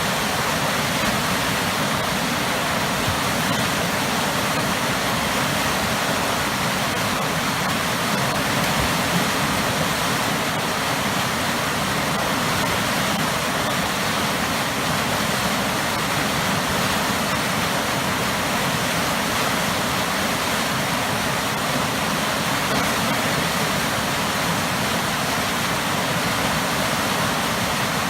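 Waterfall pouring hard into churning water: a loud, steady, even rush.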